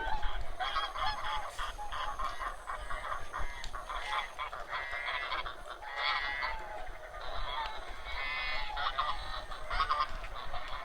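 A large flock of wild waterfowl honking continuously, many calls overlapping at once, over a low steady rumble.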